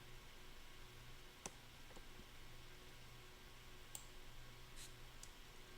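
Near silence with a low steady hum and about five faint, scattered clicks, the clearest about one and a half seconds in.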